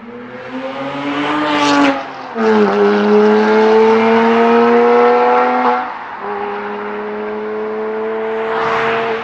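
Porsche Boxster S flat-six with a loud Capristo exhaust accelerating through the gears: the engine note climbs, drops sharply about two seconds in at an upshift, climbs slowly again, and drops once more near six seconds before holding a nearly steady pitch.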